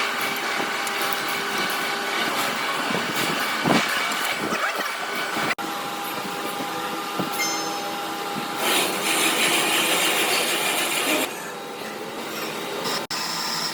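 Workshop machinery running steadily, with a hiss and several steady whining tones, and a louder, harsher stretch from about nine to eleven seconds in. The sound drops out for an instant twice.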